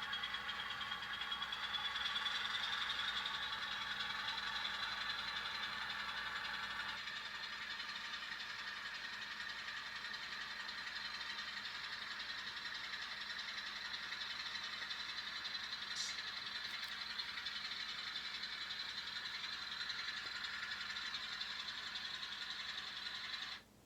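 N scale model locomotive (an Alco S4) running steadily with a high whine that rises slightly in pitch at first, then cutting out abruptly near the end as the engine goes dead, stalled by debris picked up in the wheels, which the operator takes for a clump of grass.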